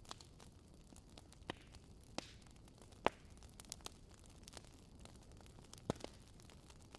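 Campfire crackling: a low, steady hiss under sparse, irregular sharp pops, the loudest about three seconds in and another near six seconds.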